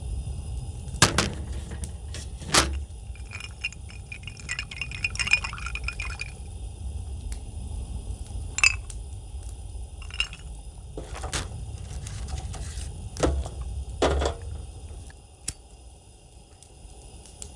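Glass and metal tableware or camp gear being handled: scattered knocks and clinks, with a run of rattling, ringing clinks about four to six seconds in, over a steady low rumble that fades near the end.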